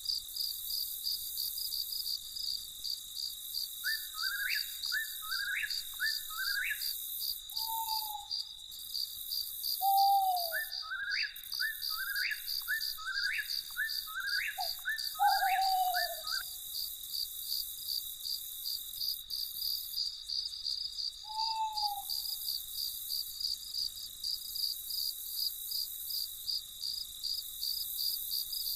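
Night insects, crickets, chirping in a steady, even rhythm throughout, while a bird calls in two runs of quick, hooked notes and gives a few lower, falling hoot-like calls.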